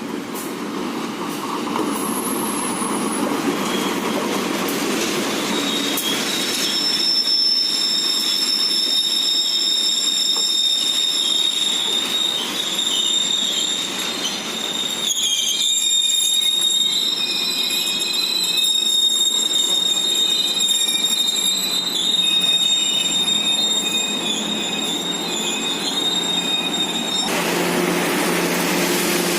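Passenger train rolling into a station: a rumble that grows louder, then from about six seconds in a long high-pitched squeal of wheels and brakes, several steady whining tones at once, as the train slows. The squeal cuts off abruptly near the end, leaving a steady low hum.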